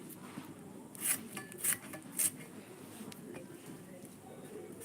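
Light kitchen clatter: three short scrapes of a utensil against a dish or pot, about half a second apart, faint over a quiet room.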